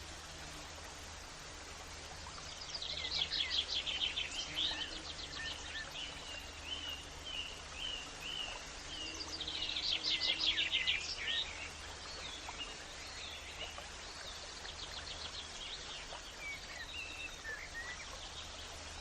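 Songbirds singing over a steady background hiss: two louder bursts of rapid trills, about three and ten seconds in, with strings of short repeated chirps between and after them.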